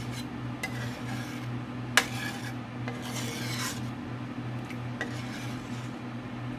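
Spoon stirring and scraping thickening cream-cheese Alfredo sauce in a pan, in a few rasping strokes, with one sharp clink against the pan about two seconds in.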